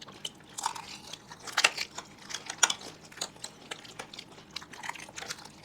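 Close-up eating sounds as people chew dahi fuchka, with scattered short clicks throughout.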